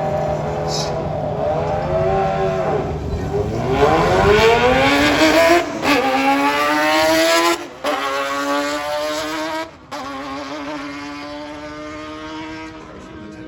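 Drag racing motorcycle engines revving, then accelerating hard with the pitch climbing steeply for several seconds. The sound then levels off and fades as the bikes run away down the strip, with a few abrupt brief dropouts.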